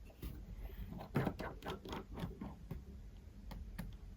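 Light, irregular clicks and taps of small repair tools working on an iPhone's internal parts during disassembly.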